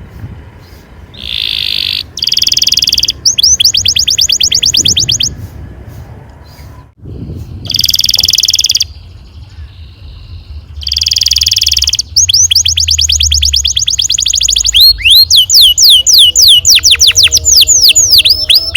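Domestic canary singing: short buzzy trills alternating with long rolls of rapid repeated notes, the notes sweeping down in pitch and growing loudest and densest near the end.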